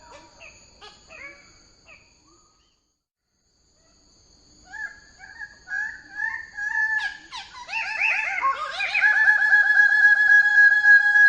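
Bird-of-paradise calls: loud, ringing notes that fade out over the first two seconds, then break off into a moment of complete silence. About four seconds in the calls resume and build into a fast run of repeated rising notes, with a steady high tone behind them.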